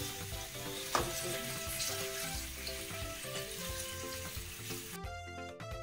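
Marinated chicken pieces sizzling as they fry in hot oil in a frying pan, being stirred with a wooden spatula, with a single knock about a second in. Background music plays underneath, and the sizzling cuts off near the end, leaving only the music.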